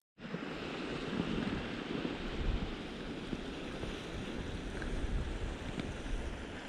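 Steady rushing of wind outdoors, with wind buffeting the microphone in low, uneven rumbles. It starts abruptly just after a short dropout.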